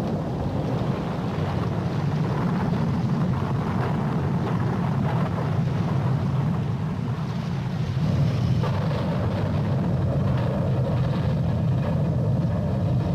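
Steady low rumble of a boat's engine, with wind on the microphone.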